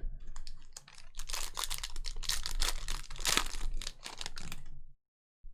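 Foil wrapper of a trading-card pack crinkling and tearing as it is opened and the cards are handled, a dense run of crackles that cuts off suddenly near the end.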